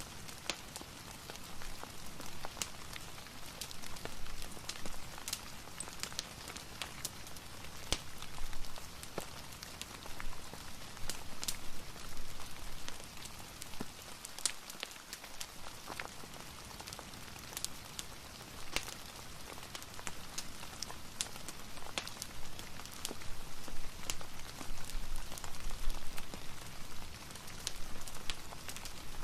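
Soft, steady rain mixed with a crackling fireplace, with many sharp ticks and pops scattered through an even hiss.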